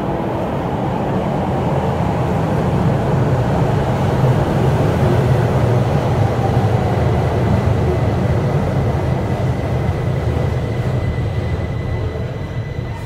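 Keihan 800 series electric train pulling into an underground station, a loud steady rumble of wheels and running gear. The rumble swells about a third of the way in, then eases as the train slows, with a faint falling whine near the end as it brakes.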